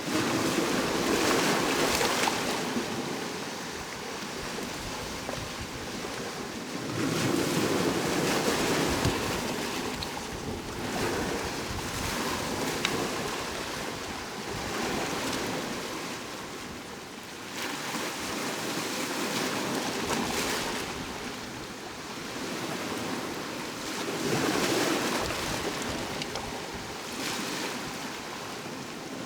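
Sea waves breaking and washing on the shore, the surf rising and falling in about four swells.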